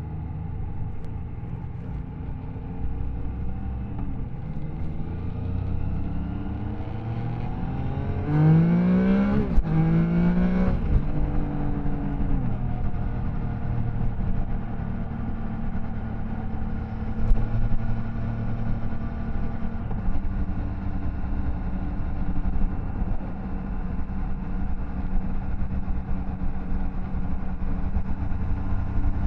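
Triumph Tiger Sport 660's three-cylinder engine under way. About a third of the way in it accelerates hard, the revs climbing twice with a short break between as it shifts up, then it settles back to a steady cruise.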